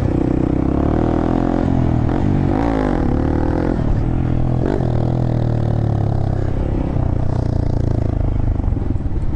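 Honda Grom's small single-cylinder engine running under way, steady, with a brief dip and rise in pitch about two and a half seconds in.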